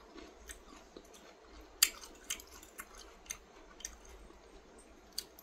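Close-miked chewing of food, with sharp wet clicks of the mouth about twice a second.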